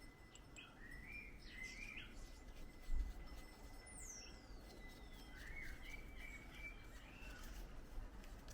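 Wild birds chirping in short phrases, with one long call sliding down in pitch about four seconds in. A single low thump about three seconds in.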